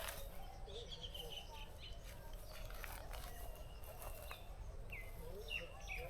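Birds chirping now and then with short, high calls over a steady low background noise.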